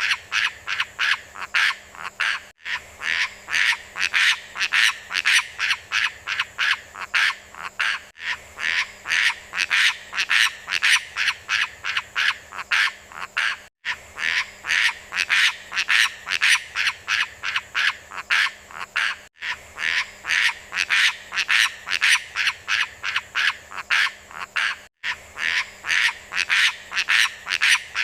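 Looped recording of a beo lumut (moss myna) calling: a fast, rhythmic run of sharp notes, about four a second. It breaks off briefly every five and a half seconds or so as the loop restarts.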